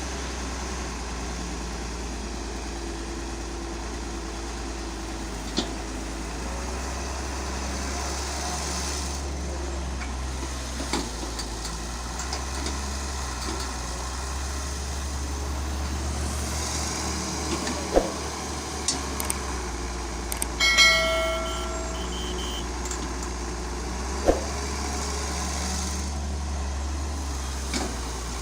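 Large vehicle engine running steadily, with a few sharp knocks and a brief beeping tone about two-thirds of the way through.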